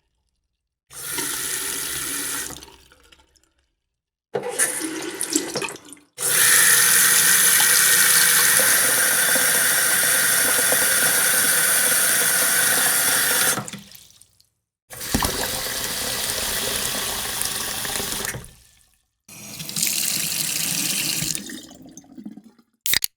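Running water in five separate clips with short silences between them, the longest and loudest lasting about seven seconds in the middle. A couple of short pops near the end.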